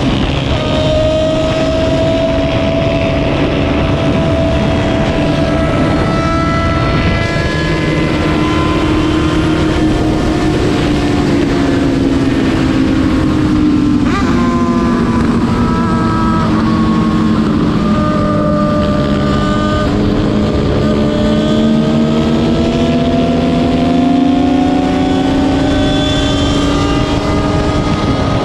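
Racing motorcycle engines running continuously, their pitch drifting slowly down through the middle and climbing back up near the end.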